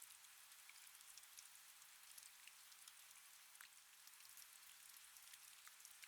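Faint, steady rain: a soft even hiss with many small, scattered drop ticks.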